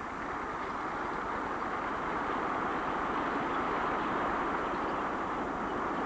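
Massed flamingo flock making a dense, continuous din in which no single call stands out, swelling gently as the flock is disturbed by a hunting marabou stork.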